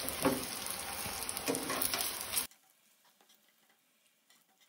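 Oil sizzling steadily around rava-coated brinjal slices shallow-frying in a pan, with a few light clicks of steel tongs lifting the slices out. The sound cuts off suddenly about halfway through, leaving near silence.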